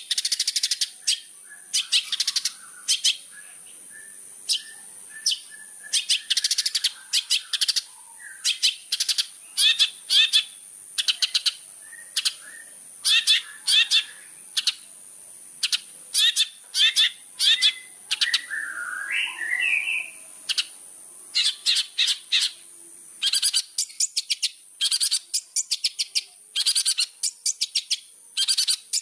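Long-tailed shrike (cendet) singing loudly: rapid harsh chattering phrases in short bursts, a few every second, with softer whistled notes between them and a steady high hiss underneath.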